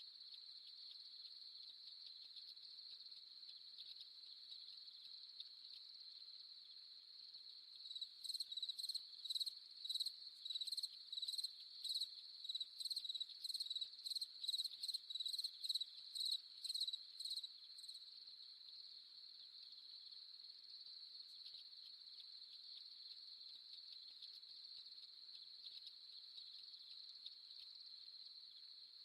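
Crickets trilling in a steady, high, continuous chorus. About eight seconds in, a louder chirping at the same pitch joins at about two chirps a second, and it stops some ten seconds later.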